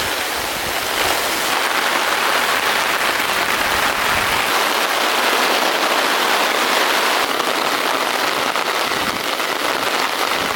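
Heavy rain pouring down steadily in a strong wind, with low gusty rumbles near the start and about four seconds in.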